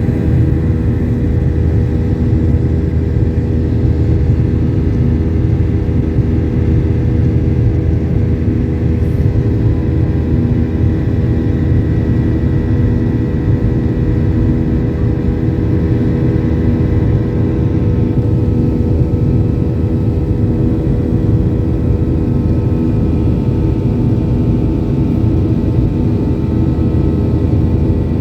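Cabin noise of a Boeing 737-800 in flight: a steady, loud rumble of engine and airflow with several constant hum tones from the CFM56 turbofans, unchanging throughout.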